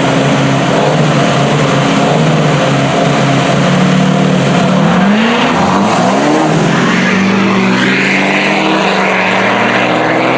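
Diesel pickup trucks running at full throttle in a drag race. The engine pitch climbs, drops back a little past the middle, then climbs again.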